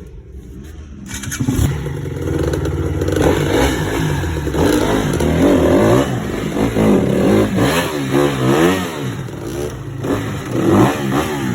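Dirt bike engine revving, its pitch rising and falling over and over with bursts of throttle. It grows loud about a second in.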